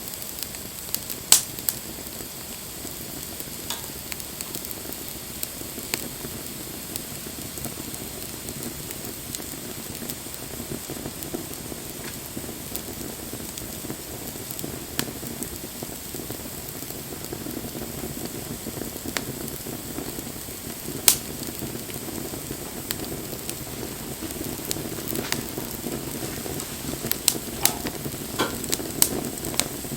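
Bonfire burning: a steady hiss and rustle of flames with scattered sharp pops from the burning wood, one loud pop about a second in and another about two-thirds through, and pops coming thicker near the end.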